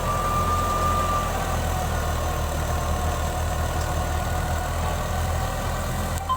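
Tractor diesel engine running steadily at a constant speed, a continuous low hum.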